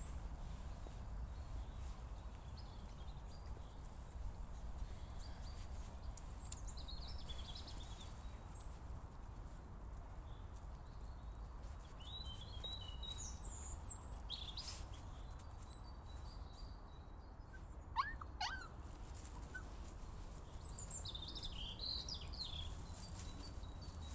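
Small birds chirping and singing in short scattered phrases, with a brief sharp sound about three-quarters of the way through, over a low steady rumble.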